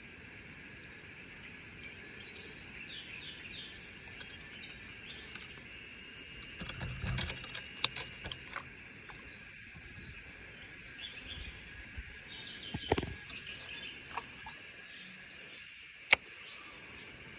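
Riverside ambience: a steady high-pitched drone with scattered bird chirps. Over it come a few sharp clicks and knocks from fishing gear handled on a kayak, the loudest cluster about seven seconds in and single sharp clicks near 13 and 16 seconds.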